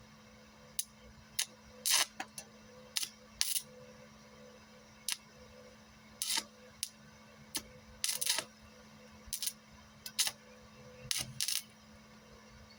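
Stick welder arc striking and crackling in about a dozen short, irregular bursts, a larger welding rod run at higher amperage, with a steady low hum underneath.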